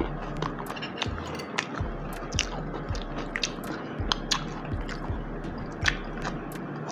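Close-miked chewing of crunchy fresh coleslaw: irregular crisp crunches and mouth clicks, several a second.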